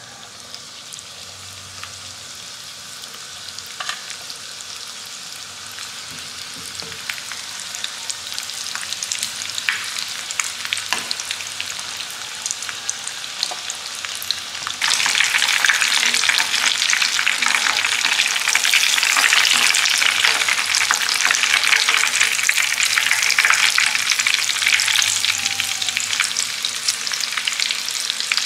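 Leftover fried chicken pieces sizzling and crackling in hot shallow oil in a frying pan as they reheat. The sizzle grows steadily louder, then jumps up sharply about halfway through and stays loud.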